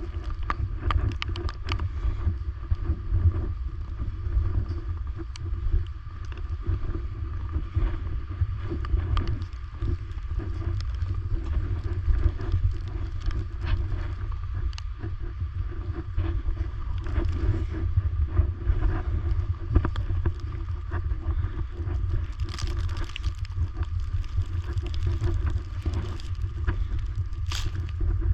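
Wind buffeting the microphone: a heavy low rumble that rises and falls unevenly, with scattered faint clicks.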